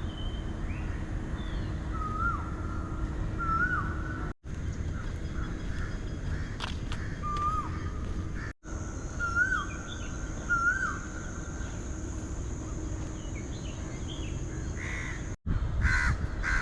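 Birds calling outdoors: a short whistled note with a rising-then-falling hook repeats about five times, and a crow caws near the end. A steady low rumble of wind and distant traffic runs underneath. The sound drops out for an instant three times where the recording is cut.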